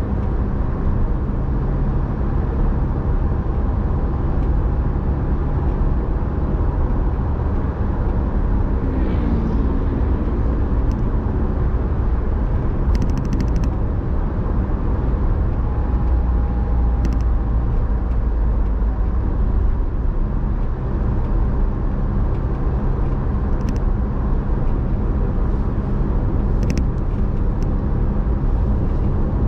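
Car being driven at a steady pace: continuous engine hum and road rumble, with the engine note shifting briefly about nine seconds in and a few faint ticks.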